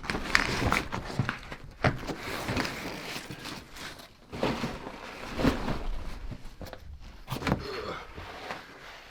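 Footsteps and scuffs on rock and grit, irregular and uneven, with a few sharper knocks.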